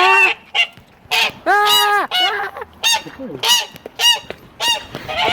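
Goose honking again and again, about eight loud calls, one held longer than the rest about a second and a half in.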